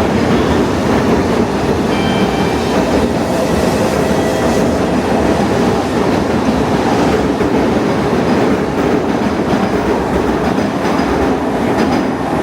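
A Tokaido Shinkansen train running alongside the platform: a loud, steady rumble of wheels and running gear, with a faint high whine a couple of seconds in.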